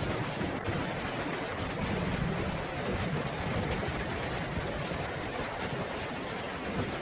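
Steady rainfall, an even hiss of rain with a dense low rumbling undertone and no distinct drops or thunderclaps.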